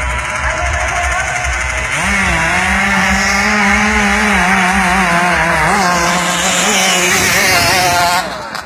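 Two-stroke KR engine of a river racing boat revving hard. Its high, wavering note climbs about two seconds in, holds with small surges, and drops away sharply near the end.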